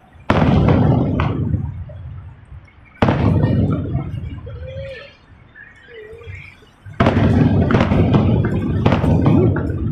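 Aerial fireworks booming: three big bursts about three and four seconds apart, each trailing off in a long rumble, with a few smaller cracks between them.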